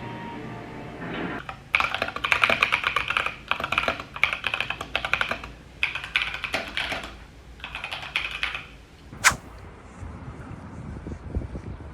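Typing on a keyboard: several bursts of quick key clicks, then one sharper single click near the end.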